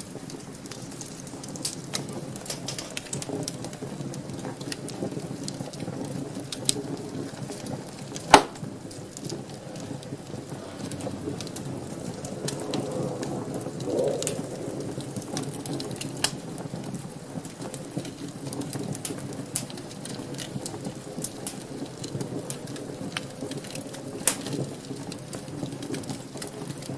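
Wood fire burning in a fireplace, crackling steadily with scattered pops, one much louder pop about a third of the way through. A faint whistling hiss rises and fades around the middle.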